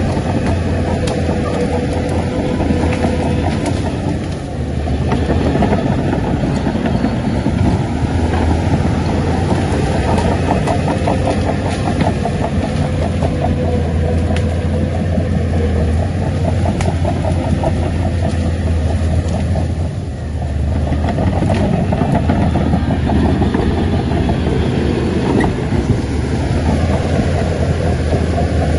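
Shantui crawler bulldozer's diesel engine running hard, with its steel tracks clanking in a fast steady rattle. The engine eases off briefly twice, about four seconds in and again about twenty seconds in.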